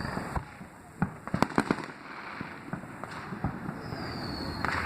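Fireworks going off: a sharp bang about a second in, then a quick run of cracks and pops, another bang later, and a high whistle falling slightly in pitch near the end.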